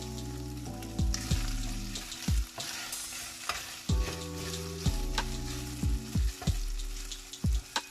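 Chopped chicken sizzling in a hot pan as it is stirred, with sharp clicks of a metal utensil now and then. Background music with held low notes plays under it.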